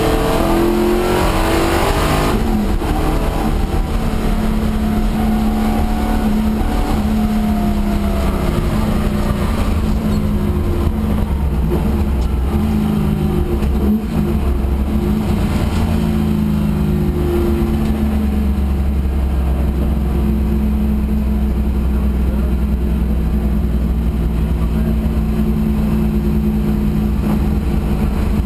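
Holden LX Torana's 355 stroker V8 heard from inside the cabin, running hard on a tarmac rally stage. Its pitch rises and falls as the car accelerates and backs off, then holds steadier for the last ten seconds or so.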